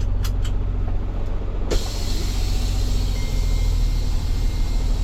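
Tow truck engine running with a steady low rumble. About two seconds in, a sudden hiss starts and carries on, and a little later the engine note grows stronger.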